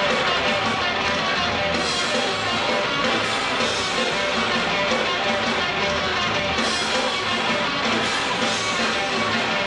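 A live noise-rock band playing loud, with dense, heavy electric guitar filling the sound without a break.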